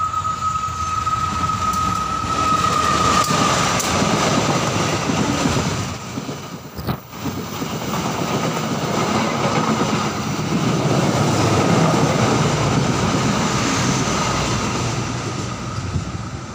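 Passenger train passing close by on the rails: a steady high whine over the approaching train in the first few seconds, then the coaches rumbling and clattering past. The sound breaks off briefly about seven seconds in, then the train noise resumes and fades toward the end.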